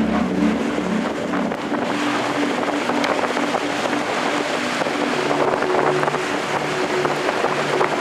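Strong wind blowing in a continuous rush, with a faint pitched hum underneath.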